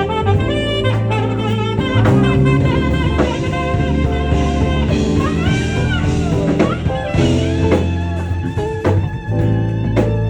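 Live smooth-jazz band: a saxophone plays the melody over bass and drum kit, with a few sliding, bent notes about halfway through.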